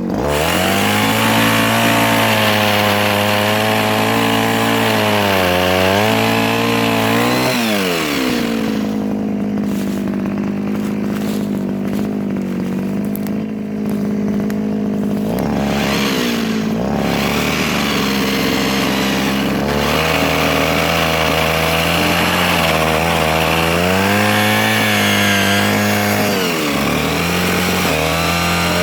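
Mini chainsaw running continuously while cutting soft wood. Its pitch holds steady for long stretches and sags and recovers several times as the chain bites into the wood.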